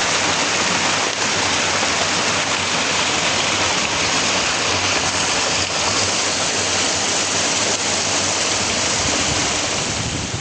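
Steady rushing of flowing water, an even hiss that holds at one level throughout.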